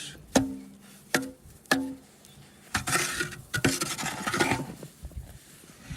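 Three sharp metallic clanks, each with a brief ring, about half a second to a second apart. They are followed by a couple of seconds of rough scraping and rubbing.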